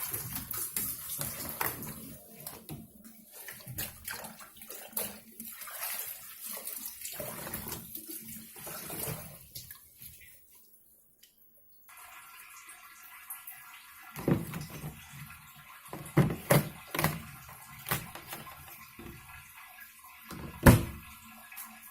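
Water splashing and dripping as wet laundry is lifted out of the wash tub of a twin-tub washing machine. After a brief pause, a few knocks and thumps follow, the loudest near the end.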